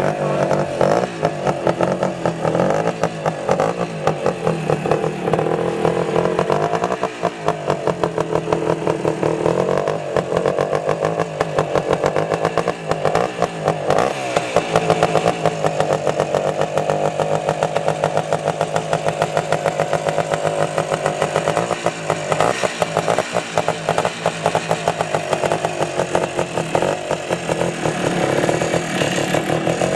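1984 Honda ATC 250R's two-stroke single-cylinder engine running just after a cold start, its pitch rising and falling a few times with the throttle. The idle is still uneven: it needs adjusting, or more warm-up time.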